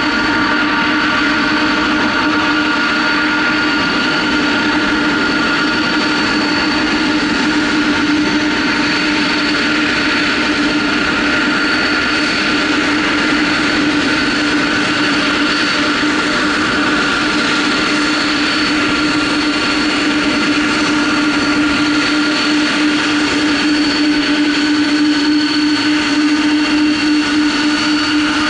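Boeing 747-400F's four turbofan jet engines running steadily, a constant whine of several held tones over a rushing noise.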